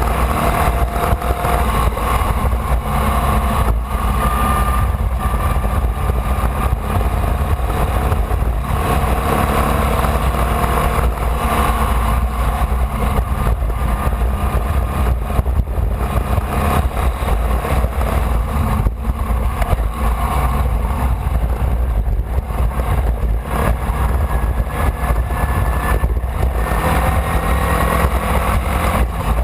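Formula Vee race car's air-cooled Volkswagen flat-four engine running hard on track, heard from an onboard camera. The engine pitch rises and falls repeatedly through the gears, over a heavy low rumble.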